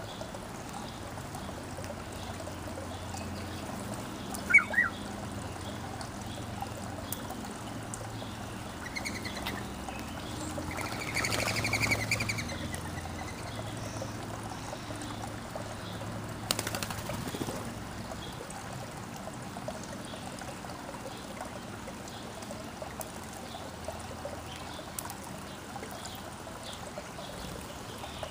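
Water trickling steadily, with birds calling over it. Two sharp chirps about five seconds in are the loudest sound, followed by a longer burst of calls around twelve seconds in and faint high chirps repeating throughout.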